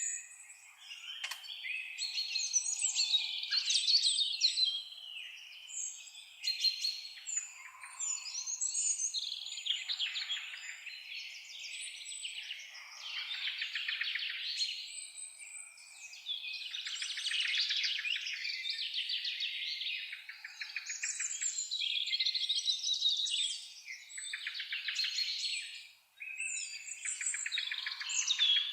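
Songbirds singing: overlapping chirps and rapid trilled phrases, each a second or two long, with short pauses between.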